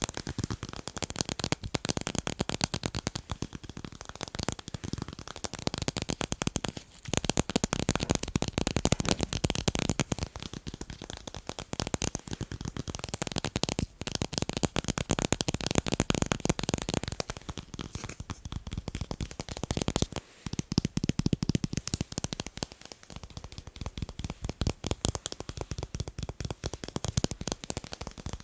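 Fast tapping on tape, a dense run of quick taps that swells louder in stretches, with brief pauses about 7 and 20 seconds in.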